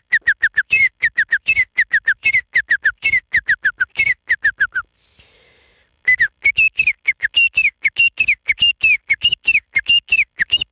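A man whistling an imitation of the male partridge's (titar's) call: a rapid run of short, downward-slurred whistled notes, about four a second. It breaks off about halfway and resumes slightly higher.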